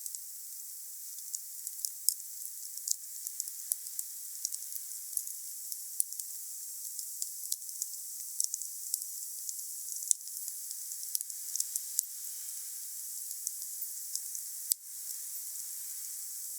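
Wood fire burning: a steady hiss with frequent small crackles and pops at irregular intervals, a few of them sharper.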